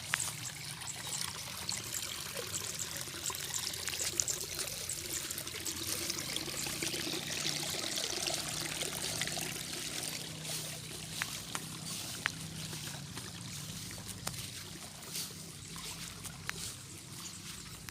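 Water trickling and splashing steadily, loudest about halfway through, with scattered small clicks.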